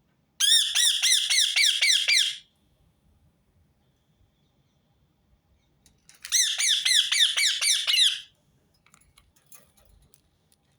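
Rose-ringed (ring-necked) parakeet calling: two loud runs of quick repeated notes, each about two seconds long with about four notes a second, each note bending down in pitch. The second run starts about six seconds in.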